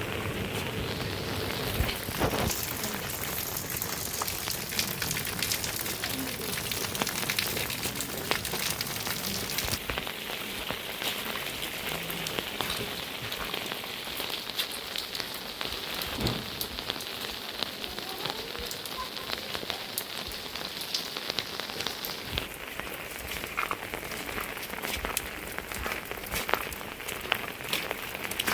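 Steady rain falling, with many individual drops pattering sharply on a hard surface. The sound changes abruptly about ten seconds in and again about twenty-two seconds in.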